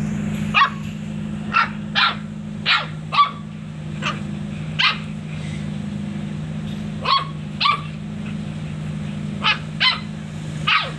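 Dog barking repeatedly in short, sharp barks, about a dozen with a pause in the middle, over a steady low hum.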